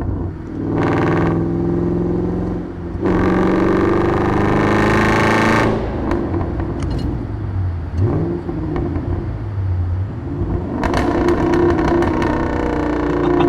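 Straight-piped 5.4-litre Boss 260 V8 of a 2005 Ford BA XR8 ute, heard from a microphone at the exhaust as it accelerates hard in a tunnel. A short burst comes about a second in. A full-throttle pull rising in pitch starts about three seconds in and the driver lifts off near six seconds. The engine then runs lighter, with a quick pitch swoop, before a second hard acceleration near eleven seconds.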